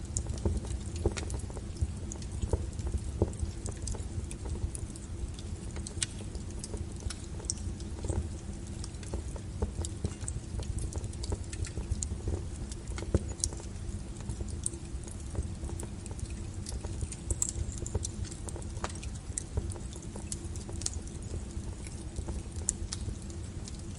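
Burning firewood crackling and popping in irregular, scattered snaps over a low, steady rumble of the flames.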